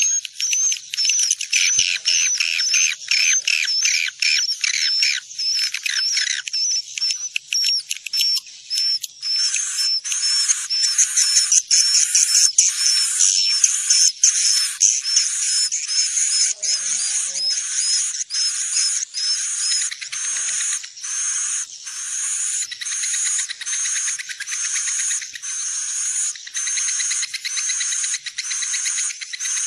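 Swiftlet lure recording: a dense chatter of swiftlet calls, rapid high-pitched twittering chirps pulsing about twice a second, with no low sound beneath. It is the kind of caller track played in swiftlet houses to draw the birds in to roost.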